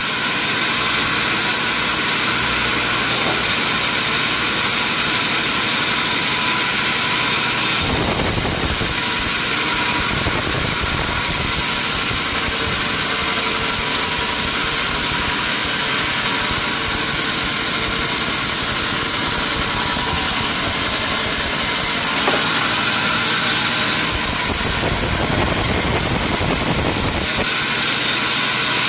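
Sawmill machinery running steadily: a continuous loud engine-and-machine noise with a lot of high-pitched hiss, the deeper rumble swelling a couple of times.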